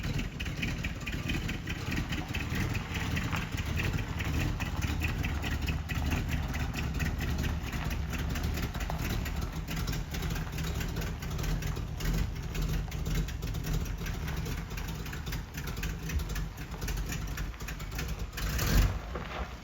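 Old pickup truck's engine idling steadily, with a sharp knock near the end.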